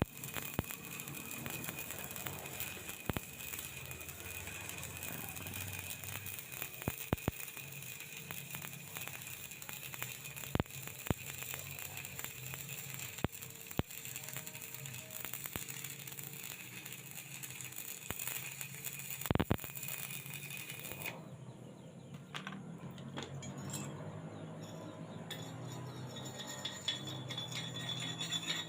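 Stick (flux-coated rod) arc welding: a steady crackling and frying with frequent sharp pops. About 21 s in the arc stops, and a few light metallic clinks follow near the end.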